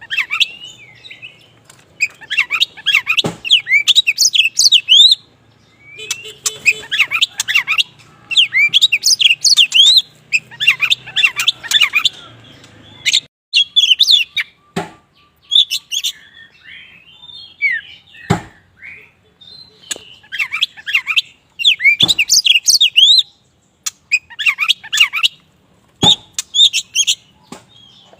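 Black Oriental magpie-robin (kacer wulung) singing vigorously in rapid bursts of high, sweeping chirps and whistles, phrase after phrase with short pauses between. A few sharp knocks fall between the phrases.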